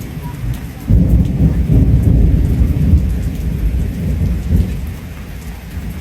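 Thunder rumbling over heavy rain: a low rumble breaks in suddenly about a second in, rolls on for about four seconds and fades near the end, while the rain hisses steadily.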